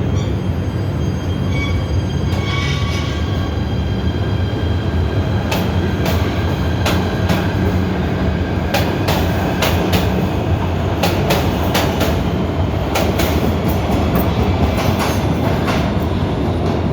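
PATH rapid-transit train running through the station, a loud steady rumble. High thin wheel squeals sound in the first few seconds, then a run of sharp, irregular clacks from the wheels over the rails.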